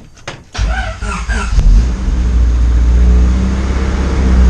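Honda D16A four-cylinder engine being restarted: it turns over for about a second and then catches, settling into a loud, steady run.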